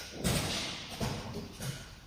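CNC wood lathe cutting wood blanks: a scraping, rushing cutting noise that starts about a quarter-second in and fades, with three dull thuds under it, spaced under a second apart.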